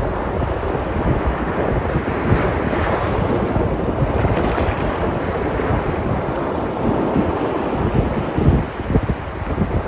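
Sea surf breaking and washing on the shore in a steady rush, with wind buffeting the microphone in low rumbles.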